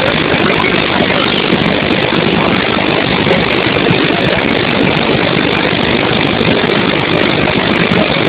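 Floodwater pouring over a dam after heavy rain: a loud, steady rush of water.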